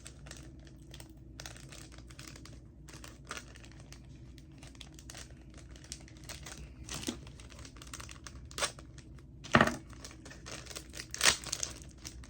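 Plastic snack packet of potato sticks crinkling and being torn open, with several sharper crackles in the second half.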